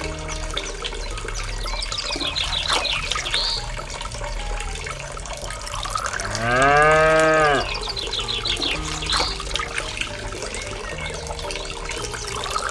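A cow moos once about six seconds in: a single call lasting about a second that rises and then falls in pitch. Under it runs a thin trickle of water poured from a small metal pail.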